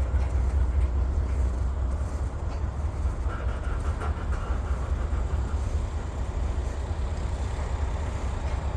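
Long Norfolk Southern freight train rolling past, its cars making a steady low rumble.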